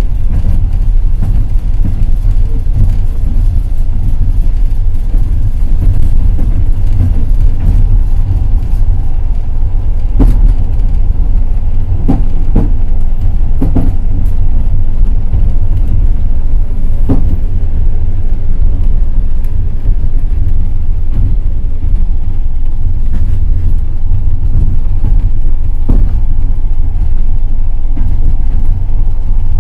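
Passenger train running on the rails: a steady, loud low rumble of the wheels, with scattered sharp clacks of wheels over the track, several close together about twelve to fourteen seconds in.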